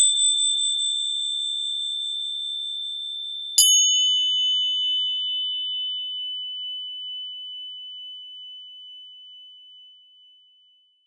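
Two coin clinks about three and a half seconds apart, each a sharp strike followed by a long, clear, high ring that slowly fades; the second coin rings at a lower pitch and dies away near the end.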